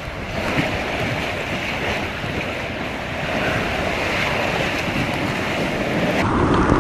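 Rushing water and wind noise on a phone's microphone while sliding down a water slide, steady throughout, with an abrupt change in the sound near the end.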